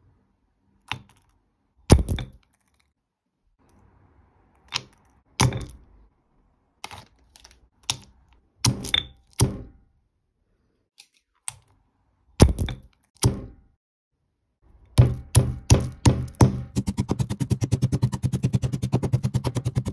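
Things being crushed: a dozen or so separate cracking thunks at uneven gaps. About three-quarters through they give way to a fast run of knocks, then a rapid, even rattle over a low steady hum.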